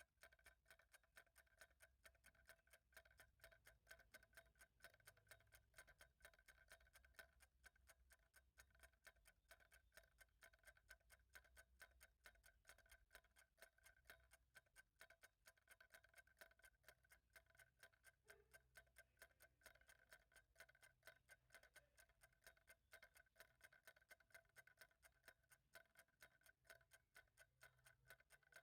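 A clock ticking faintly in an even, steady rhythm, with a low hum beneath.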